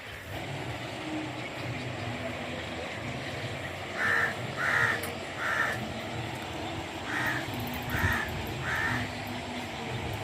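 A bird calling: six short calls in two groups of three, the second group about three seconds after the first, over steady outdoor background noise.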